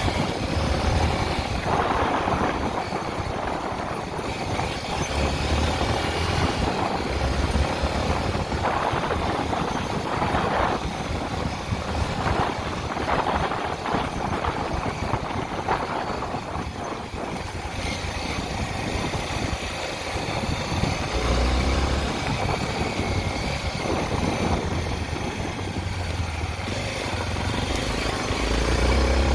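Honda XR 250 Tornado's single-cylinder four-stroke engine running while the bike is ridden, under a steady rush of wind and road noise.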